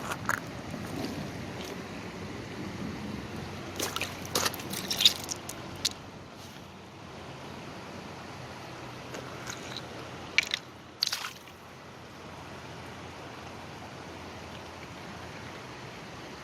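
Flooded river rushing steadily. A cluster of sharp clicks and knocks comes about four to six seconds in, and two more about ten to eleven seconds in.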